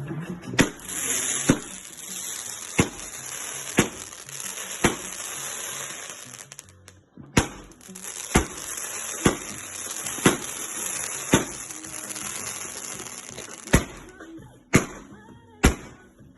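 Fireworks going off: a string of sharp bangs about once a second, over a steady crackling hiss that drops out briefly about seven seconds in.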